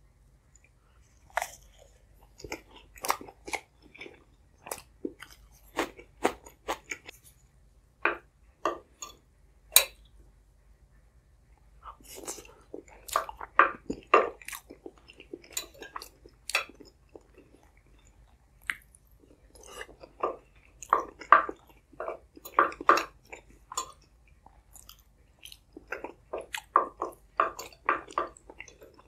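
Close-miked chewing and biting as mouthfuls of potato, egg and thin flatbread are eaten: sharp mouth clicks and crackles in clusters, with short pauses between bites.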